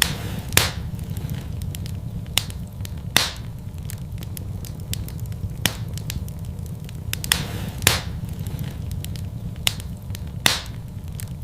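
Wood fire burning in a fireplace: a steady low rumble of flame with irregular sharp crackles and a few louder pops from the logs.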